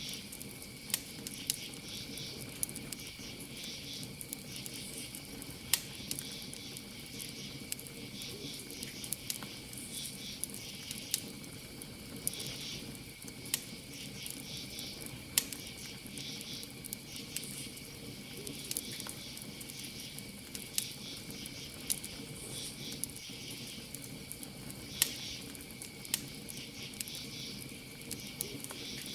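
Campfire crackling, with sharp pops every second or two, over a steady chorus of crickets chirping.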